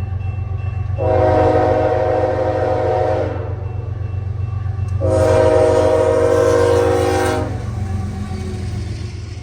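Diesel freight locomotive's five-chime air horn, a K5HR, sounding two long blasts for a grade crossing, over the steady low rumble of the locomotive and train. The rumble fades near the end as the train passes.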